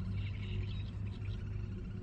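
Small songbirds chirping and twittering in quick short notes over a steady low hum.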